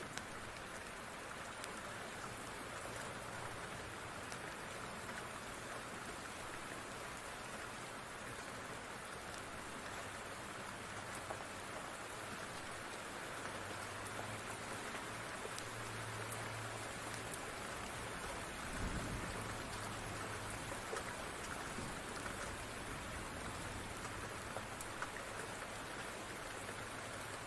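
Steady rain falling on a surface, with scattered small drop ticks throughout and a brief low rumble about two-thirds of the way through.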